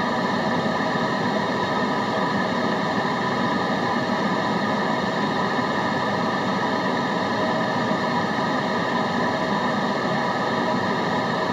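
Steady white noise with a faint drone of several steady tones in it, unchanging in level throughout.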